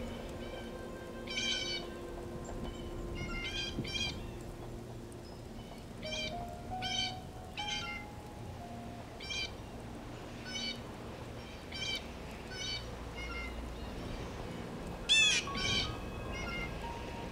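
Birds calling outdoors: a string of short calls repeating roughly once a second, with one louder call about fifteen seconds in.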